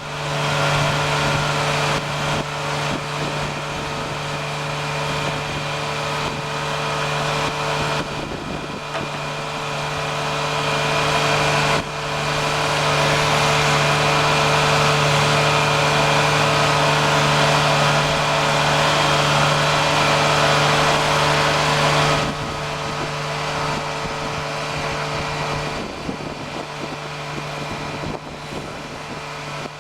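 Peterson blower truck running: a steady low drone from the engine and tri-lobe blower, under a rushing hiss of air through the delivery hose. The hiss grows louder for about ten seconds in the middle, and the sound changes abruptly several times.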